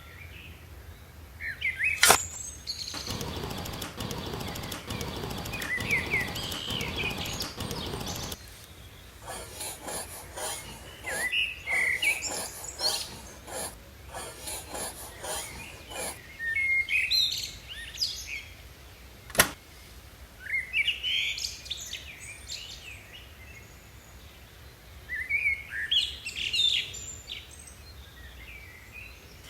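Small birds chirping in short, repeated calls throughout, with a rushing hiss for several seconds near the start and two sharp clicks.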